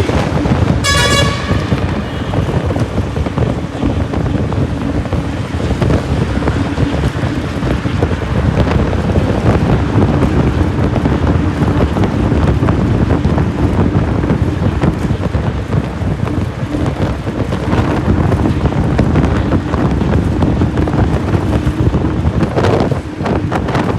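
Steady rumble and wind noise of a vehicle ride, most likely a bus going through a road tunnel, with a low hum under it. A brief high tone sounds about a second in.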